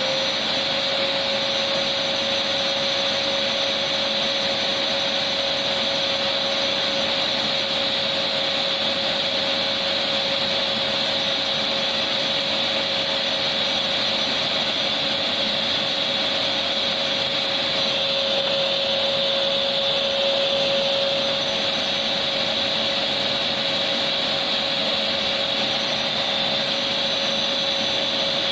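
Electric vacuum cleaner running steadily, a constant whooshing noise with a steady hum.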